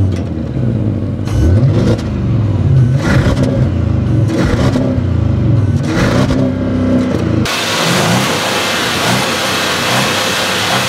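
2013 Audi S8's 4.0-litre twin-turbo V8 revved in repeated blips through its dual exhaust tips, the pitch rising and falling with each blip. About seven seconds in, the revving stops and the engine idles under a steady hiss.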